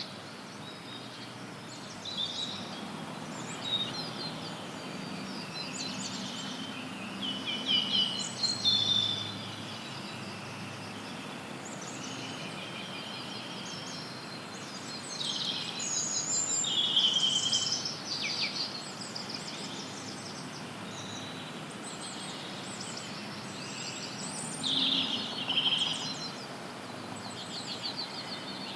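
Several wild birds chirping and singing over a steady hiss of added white noise, the birdsong coming in clusters that grow busier a quarter of the way in, past the middle and near the end.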